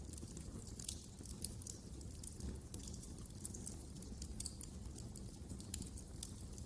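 Wood fire crackling in a fireplace: scattered sharp snaps and pops at irregular intervals over a low steady rumble.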